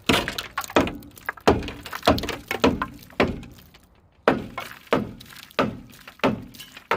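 Hammer striking rusted metal on a truck's rear axle and suspension, one sharp blow about every two-thirds of a second, each ringing briefly, with a short pause about halfway through.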